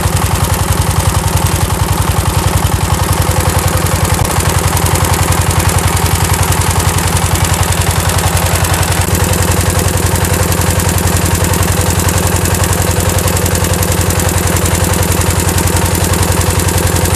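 Reconditioned 20 hp DF Builders (Dongfeng-type) radiator-cooled diesel engine running steadily with a rapid, even knocking beat; its note shifts slightly about halfway through.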